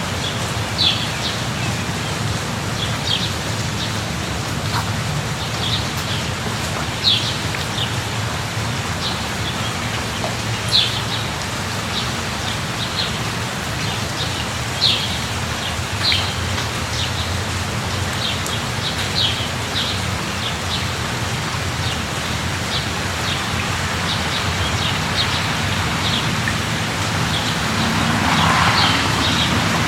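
Steady rain hiss with a bird giving short, high chirps scattered throughout. Near the end a broader swell of louder noise rises and fades.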